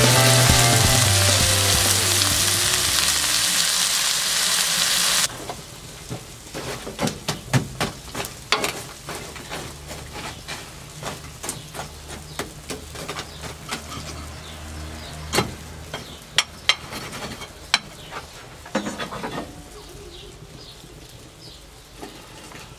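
Diced kulen sausage sizzling in its own fat in a hot pan, a loud dense sizzle that cuts off about five seconds in. Then a wood fire burning down to coals crackles, with irregular sharp pops and snaps that thin out near the end.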